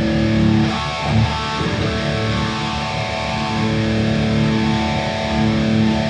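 Electric guitar played through a Boss Katana Gen 3 212 amp, chords held and ringing, changing about a second in and again near the end, with the amp's treble turned way up.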